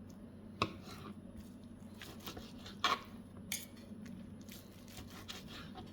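Faint clicks and scrapes of a knife and fork working on a cut of smoked beef, with three sharper clicks about half a second, three seconds and three and a half seconds in.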